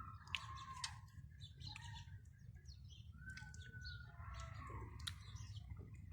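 Faint chirping of small birds: scattered short calls and a falling whistle about three seconds in, over a low steady background hum.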